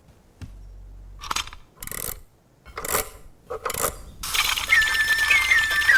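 A few short metallic clicks and clinks, then, about four seconds in, the jewelled clockwork nightingale starts its song: a piping, whistle-like tune of held notes that step down in pitch.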